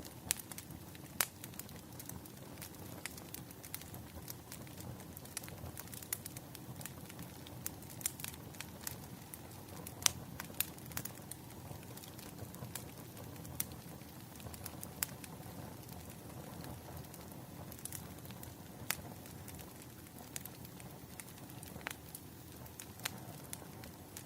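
Wood fire crackling: burning firewood gives irregular sharp pops and snaps, a few much louder than the rest, over a steady low rumble.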